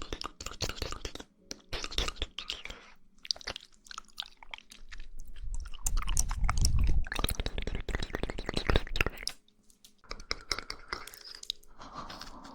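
Close-miked mouth sounds of eating jelly: wet chewing, smacking and sucking clicks in quick irregular runs. They are loudest in the middle, with a brief lull about two-thirds of the way through.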